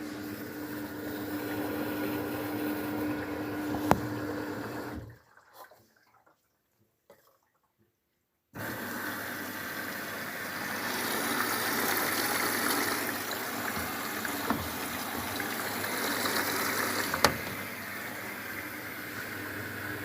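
Luxor WM 1042 washing machine taking in water through its inlet valve at the start of a cotton 40°C wash, a steady rush of water. The flow stops for about three seconds midway, then starts again abruptly, with a sharp click twice.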